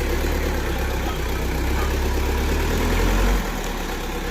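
Small bulldozer's diesel engine running with a steady low rumble. The rumble swells slightly, then drops off suddenly about three and a half seconds in.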